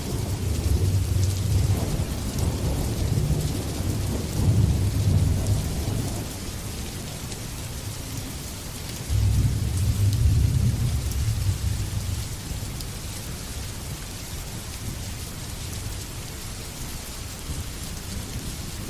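Steady heavy rain with rolling thunder: a long low rumble dies away over the first few seconds, then a fresh peal breaks in suddenly about nine seconds in and rolls off, leaving the rain.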